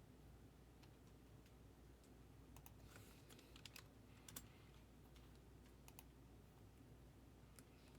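Near silence with faint, irregular light clicks, a few of them in quick clusters, over a low steady hum.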